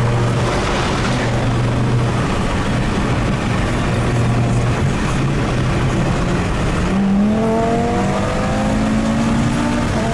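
Car engine and road noise heard inside the cabin at highway speed, steady at first. About seven seconds in, the engine pulls hard under acceleration and its pitch climbs. Right at the end it drops at a gear change.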